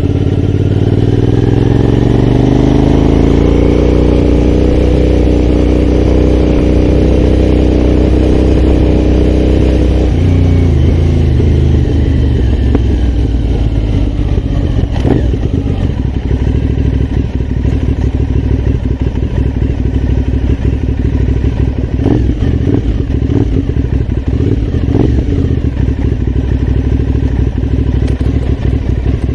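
Aprilia Shiver's V-twin engine under way, rising in revs over the first few seconds and holding steady. About ten seconds in it drops off to a lower, steady running note, with a few clicks and knocks later on.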